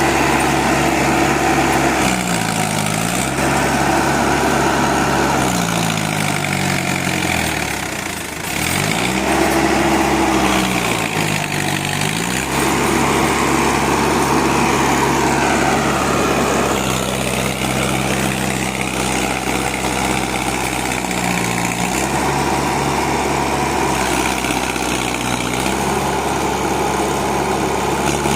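Tractor diesel engine running under a heavy sugarcane load. Its speed dips and picks back up several times.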